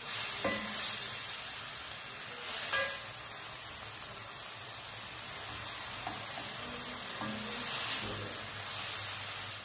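Chicken mince sizzling in oil in a non-stick wok, with a plastic spatula stirring and scraping through it now and then.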